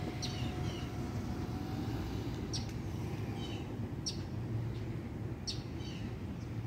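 A bird giving short, high, downward chirps about every second, over a steady low rumble.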